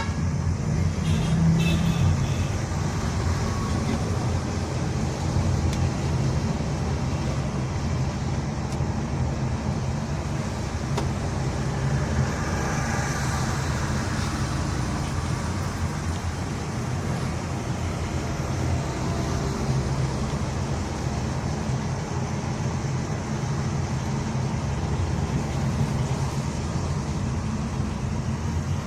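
Steady road and engine hum heard from inside the cabin of a moving Honda Elevate SUV, with a hiss that swells briefly about halfway through.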